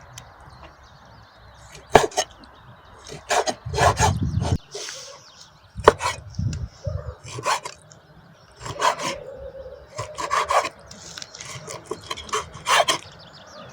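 Irregular scraping and knocking strokes on wood, a dozen or so spread unevenly, some with a short rasping drag.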